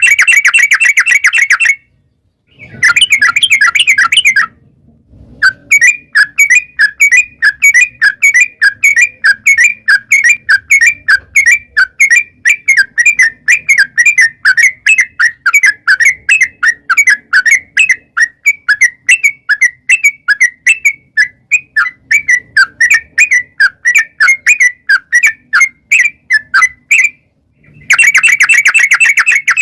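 Yellow-vented bulbul (trucukan) singing a long, fast run of repeated chattering notes, with two short dense bursts of song early on and another near the end.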